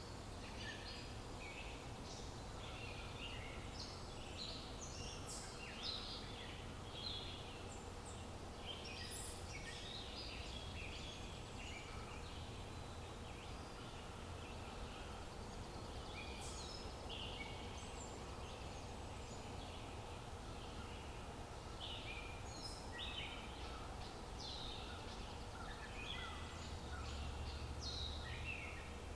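Many small birds chirping, with short, quick calls overlapping throughout, over a steady low outdoor background hiss.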